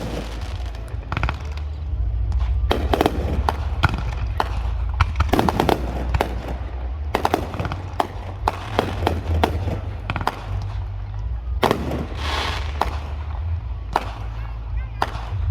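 Fireworks display: a quick, irregular run of sharp bangs and crackling bursts over a steady low rumble.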